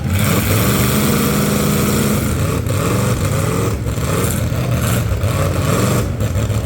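Several full-size demolition derby car engines running loud, revving up and down over one another.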